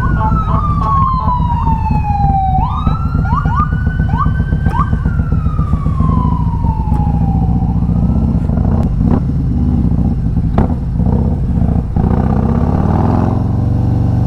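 An emergency vehicle's wailing siren, sliding slowly down in pitch, sweeping back up, then sliding down again before fading out about eight seconds in. Underneath it runs the steady low rumble of a motorcycle engine.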